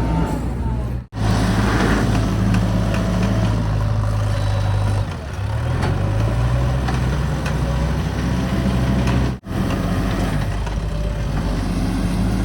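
Heavy diesel engine of construction machinery running steadily. Its pitch sags briefly about five seconds in and then picks back up, and the sound cuts out abruptly twice for a split second.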